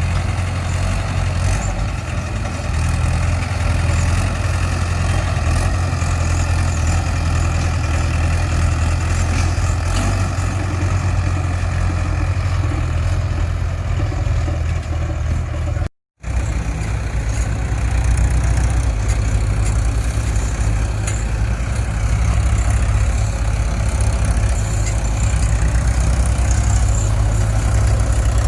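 Heavy diesel engine running steadily at low speed. The sound cuts out for a moment about sixteen seconds in, then carries on.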